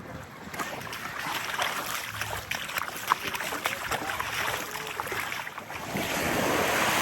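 Small waves lapping on a sandy shore, the wash crackling and fizzing. A louder wave swells up and washes in near the end.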